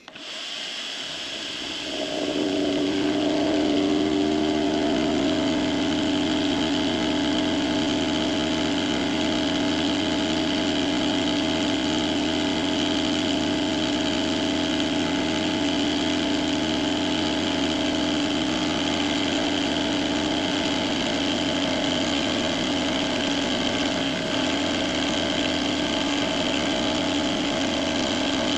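Precision Matthews PM-25MV benchtop milling machine starting up, coming up to speed over about two seconds, then running steadily while taking a finishing pass across an aluminium plate.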